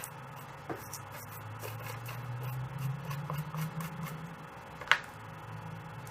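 Dry pastel stick worked over paper in light strokes, with faint scratches and small clicks and one sharper click about five seconds in, over a low steady hum.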